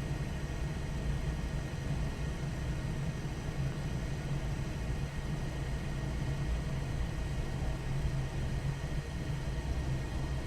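Steady low engine rumble that holds an even level without rising or falling.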